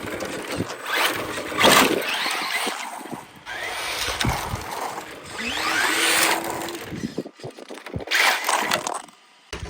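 Brushless electric motor of a Tamiya Mercedes 190E RC car being driven in several short full-throttle bursts, with a whine rising in pitch on each run over the rush of the tyres on the ground.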